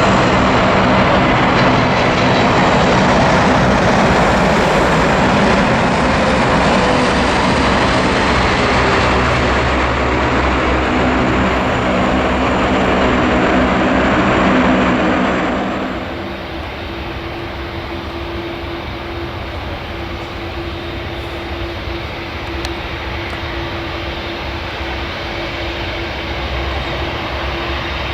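Boeing 747-8F freighter's four GEnx turbofans during its landing: loud jet noise with a slowly falling whine. About halfway through, the sound drops suddenly to a quieter, steady engine hum with a single held tone.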